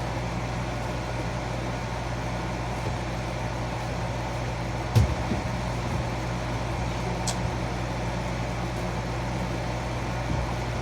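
Steady low background hum, with a single soft thump about five seconds in and a faint click a couple of seconds later.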